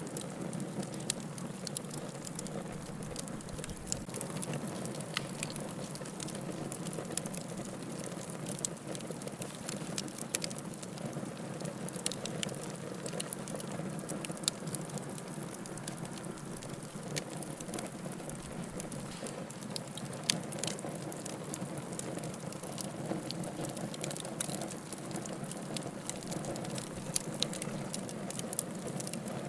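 Firewood burning in a fireplace, with a steady hiss and many small sharp crackles and pops scattered throughout.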